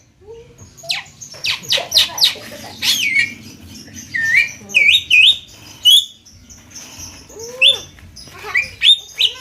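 Javan myna calling in an irregular run of sharp chirps, harsh squawks and short rising whistles.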